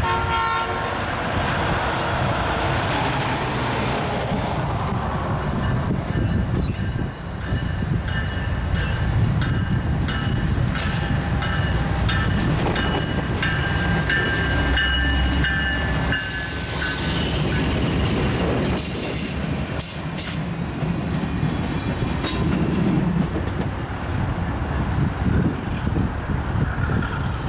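Norfolk Southern geometry train passing, led by a GE Dash 9 diesel-electric locomotive: a steady rumble of the diesel engine and wheels on rail. Thin high wheel squeals and clicks come in the middle stretch.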